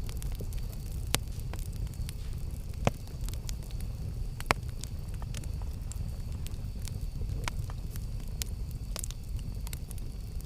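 Campfire burning: wood crackling with scattered sharp pops, three louder snaps about a second, three seconds and four and a half seconds in, over a low steady rumble.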